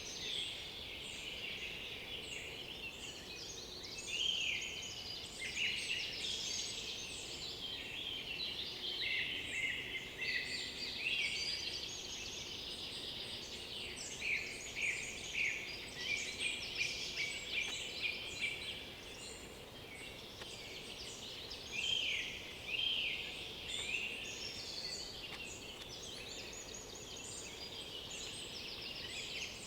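Several songbirds singing at once in a forest chorus, their songs and calls overlapping continuously. A run of repeated loud notes comes about halfway through.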